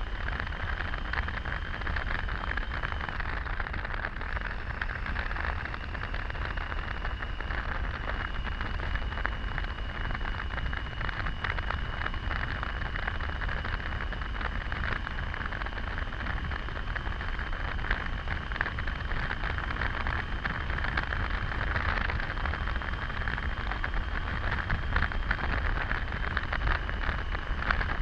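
Steady rush of wind and road noise from a Triumph Tiger 800 motorcycle riding at an even pace, with its engine running underneath. A thin, steady whine runs through it.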